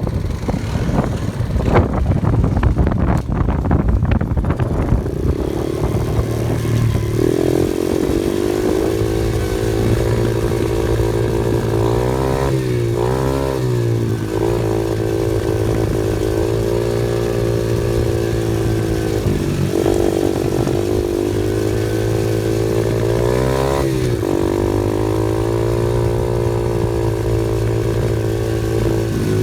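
Off-road vehicle engine running at a steady pitch, dropping and picking back up in revs about twelve seconds in, again around twenty seconds and near twenty-four seconds. The first few seconds are mostly rattling clatter and wind noise before the engine note stands out.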